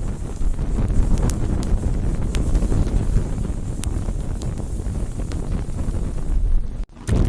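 Wood campfire burning: a steady low rush of flames with scattered sharp crackles and pops. The sound cuts out for an instant near the end.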